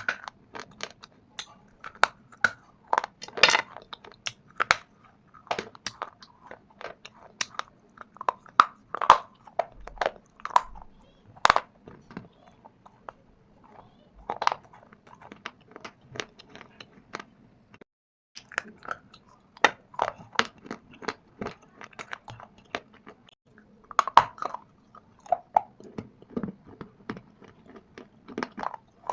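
Close-up crunching of shale stone and dried clay (mitti) being bitten and chewed: many sharp, irregular crunches, with a brief pause a little past the middle.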